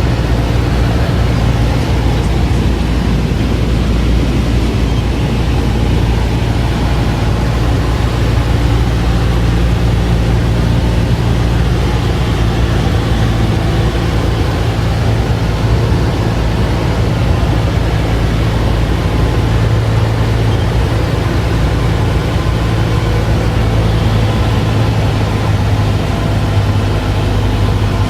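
Cessna 172's piston engine and propeller running steadily: a loud, low, constant drone.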